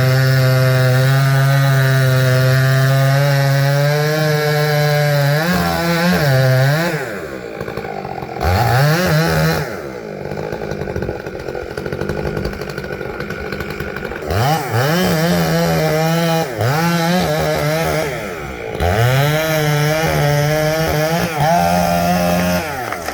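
Chainsaw cutting poplar, running at high revs under load. It drops back toward idle twice midway and revs up again several times.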